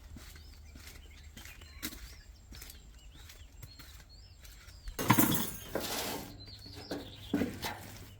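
Pet parrot making faint, soft chirps. About five seconds in there is a loud rustling flurry, followed by a couple of shorter ones.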